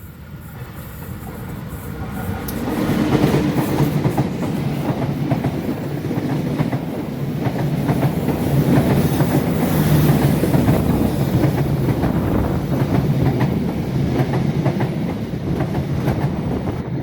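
Diesel-hauled passenger train passing close by. It grows louder over the first three seconds, then the coaches' wheels clatter steadily over the rail joints above the low hum of the locomotive, until it falls away at the very end.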